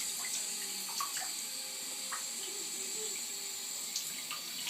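Water running steadily from a tap, an even hiss, with a few faint short splashes or taps.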